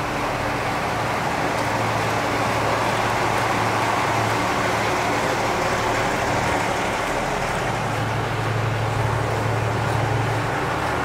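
Steady low hum of an idling diesel engine under a continuous even hiss, with no sharp events.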